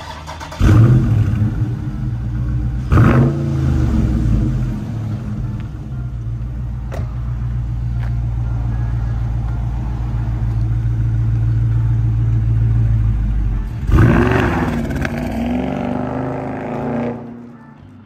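Dodge Charger Scat Pack's 392 HEMI V8 cranking and firing on a lukewarm start just under a second in, with a loud start-up flare. It blips once about three seconds in, then settles into a steady idle. About fourteen seconds in it revs hard and accelerates away, the sound fading as the car drives off.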